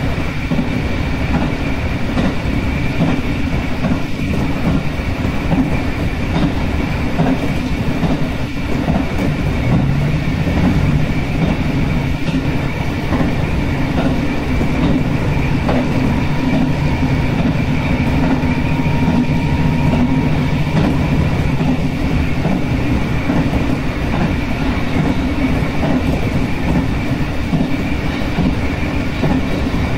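Passenger train running along the line, heard from on board at the front: a steady low rumble with the faint clicks of wheels on the rails, and a faint high tone for a few seconds around the middle.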